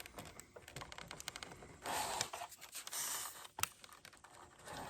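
Hands working the bent landing gear struts of a crashed foam RC airplane back into shape: light clicks, taps and scrapes, with a sharp click about three and a half seconds in.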